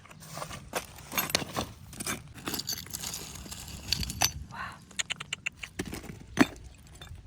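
Hand tools tapping, clicking and scraping against a phone, with a quick run of about eight ticks around five seconds in and one sharp, loud click a little after six seconds.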